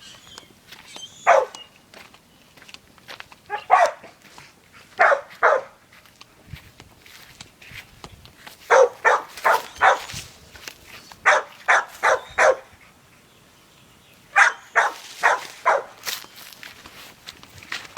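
A dog barking: a few single barks, then several quick runs of three to five barks.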